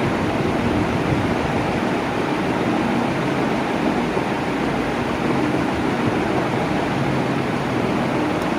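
Electric fan running steadily: an even rush of moving air with a faint low hum underneath.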